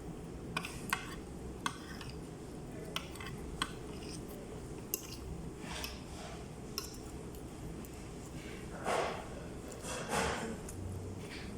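A spoon clinking against a soup bowl about six times in quick, separate taps, followed near the end by two louder, longer noisy sounds, over a steady low background hum.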